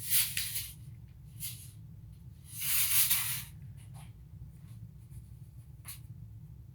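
A tape measure being handled: a few scraping, rustling strokes, the longest about 3 seconds in, and a couple of light clicks.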